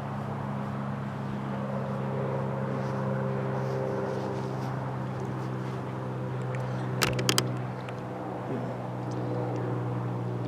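Steady low mechanical hum made of several held tones, with a quick cluster of three or four sharp clicks about seven seconds in.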